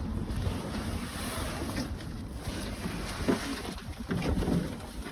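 Wind buffeting the microphone: a steady low rumble and hiss, with a few short, faint sounds in the background about three and four and a half seconds in.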